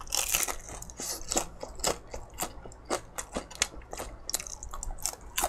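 Close-miked chewing of a batter-fried chili pepper (gochu-twigim): crisp, irregular crunches roughly twice a second, the crispest right at the start.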